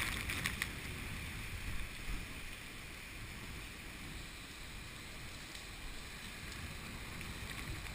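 Typhoon wind buffeting a head-mounted GoPro Hero2 with rain hitting the camera: a steady low rumble under a fainter hiss, with a few small taps early on.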